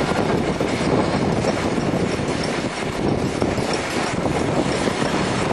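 Steam-hauled train's carriages running along the track, heard from a carriage window: a steady rumble of wheels on rails.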